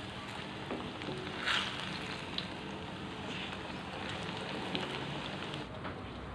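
Banana slices sizzling in hot cooking oil in a frying pan, a steady hiss, with a few light clicks from tongs turning them.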